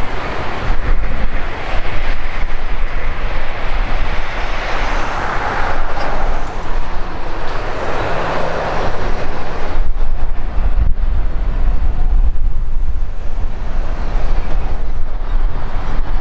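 Boeing 767 jet engines running loud, with a deep rumble and a rushing roar that swells twice and eases about ten seconds in; wind buffets the microphone.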